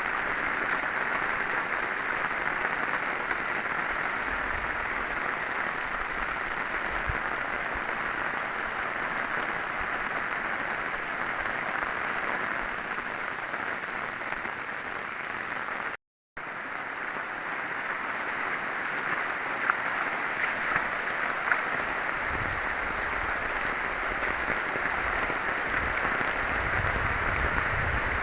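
Heavy rain pouring down in a steady hiss, with a few sharp drop ticks. It breaks off for a moment about halfway, and low rumbling comes and goes near the end.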